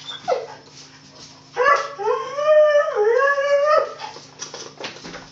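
Dog whining in play: a short yelp just after the start, then one long, wavering howl-like whine lasting about two seconds.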